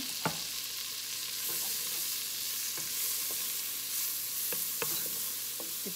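Chopped garlic sizzling in butter in a non-stick pot while a wooden spoon stirs it, with a few light knocks of the spoon scattered through.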